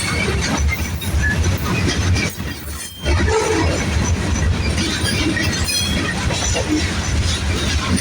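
Freight train rolling past, a steady low rumble with rattling wheel and car noise; the level drops briefly about two and a half seconds in, then picks up again.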